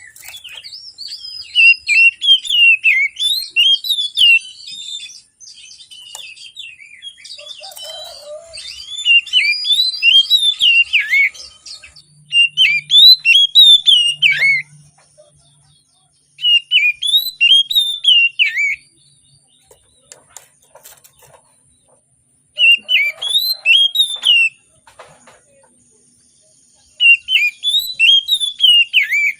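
Oriental magpie-robin singing loudly: bursts of rapid, looping whistled phrases about two seconds long, repeated every few seconds with short pauses between.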